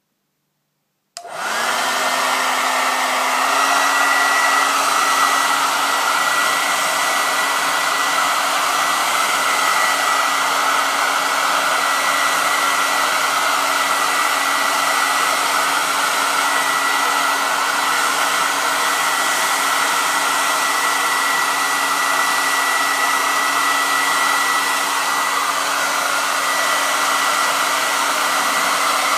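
Hair dryer switched on about a second in, its motor spinning up briefly and then running steadily: a loud, even rush of air with a low hum and a thin high tone.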